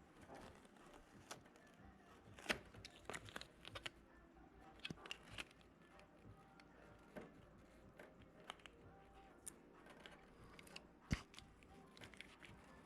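Faint, scattered clicks, taps and rustles of small handling noises, with two sharper knocks about two and a half seconds and eleven seconds in.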